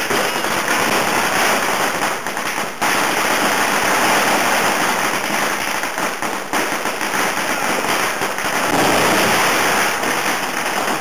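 Many fireworks and firecrackers going off at once in a dense, continuous crackle of rapid bangs with barely a break.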